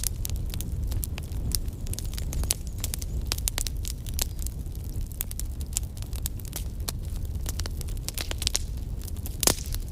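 Wood fire crackling, with many quick sharp pops over a steady low rumble of flames; one louder pop near the end.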